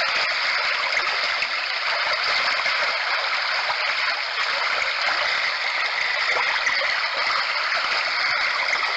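Running-brook water sound played steadily by a HoMedics Sound Spa portable sound machine, through its small speaker, on the brook setting; an even rush with little bass.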